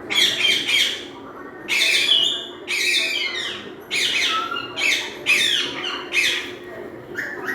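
Pet parrot giving a run of about eight short, harsh squawks, each falling in pitch, one after another.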